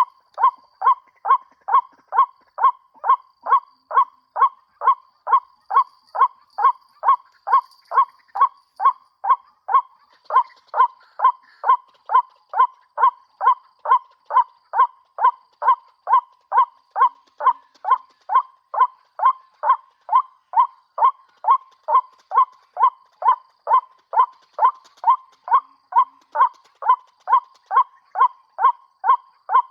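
White-breasted waterhen call played from a bird-caller speaker as a lure: one short note repeated monotonously about twice a second, evenly spaced and unchanging throughout.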